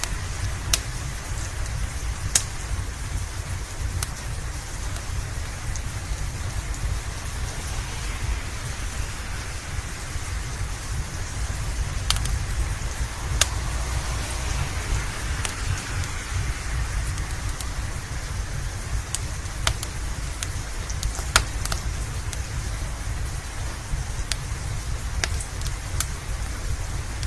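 Steady rain over a constant low rumble, with about a dozen sharp crackles from a wood fire scattered irregularly through it.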